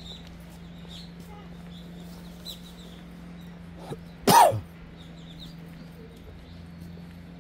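A single cough close to the microphone, about four seconds in, over a steady low hum and faint high chirps.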